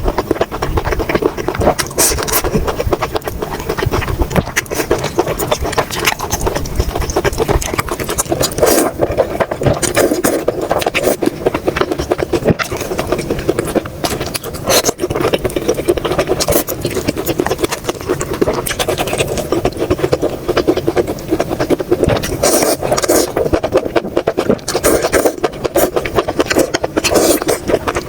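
Close-miked eating sounds: continuous wet chewing and mouth noises with many small crackles and clicks.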